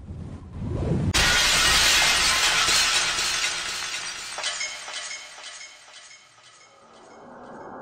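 Sound effect of a loud shattering crash, like breaking glass, striking suddenly about a second in after a short low rumble. Small fragments keep clinking and tinkling as the crash slowly fades away.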